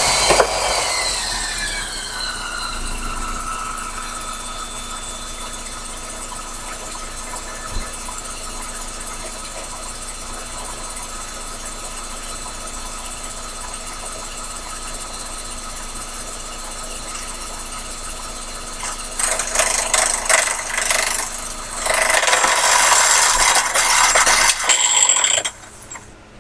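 Sherline mini lathe running: the motor's whine swoops up, then settles into a steady pitch. Near the end come two rough, scraping stretches as the tool cuts the work turning between centers, and then the sound drops off abruptly.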